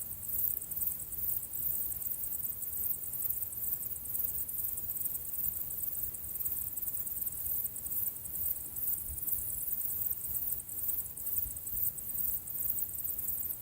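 Insects chirring in a fast, high-pitched pulsing that never lets up, over a faint low rumble.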